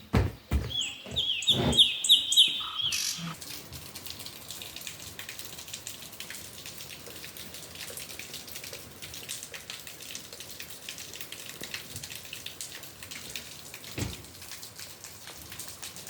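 A bird chirping in a quick run of short rising chirps, with a few dull knocks, for about three seconds. Then steady rain falling, a dense patter of drops.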